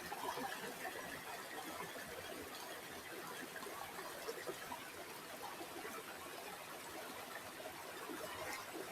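River water flowing steadily: a soft, even trickling with many small bubbling splashes.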